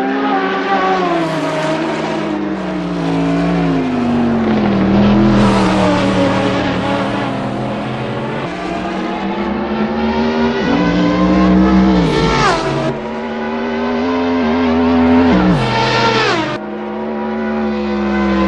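High-performance car engine on a racetrack, first easing off with its pitch falling, then accelerating hard with three upshifts in the second half. Each time the pitch climbs and then drops sharply.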